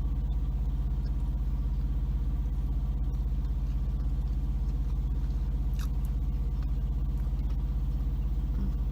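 Semi truck's diesel engine idling steadily, a low even hum heard from inside the cab.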